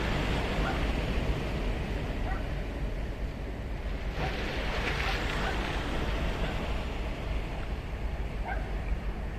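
Ocean surf breaking and washing ashore in a continuous rush, with a wave surging in louder about four seconds in.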